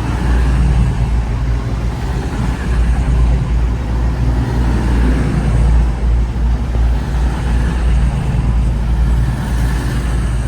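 A train running close by, with a loud, steady low engine rumble.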